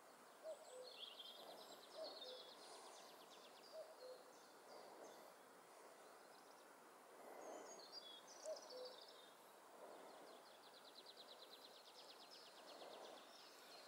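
Faint birdsong: a distant bird repeats a two-note hoot, high note then lower, four times. A higher, fast trilling song from a small songbird comes about a second in and again in the second half.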